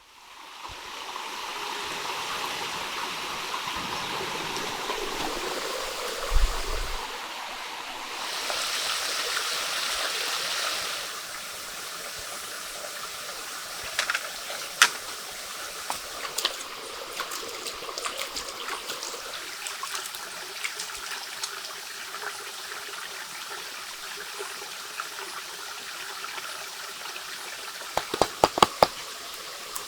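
Stream water running steadily, with a louder rush for a few seconds. Scattered sharp knocks or clicks cut through it, the loudest a quick cluster near the end.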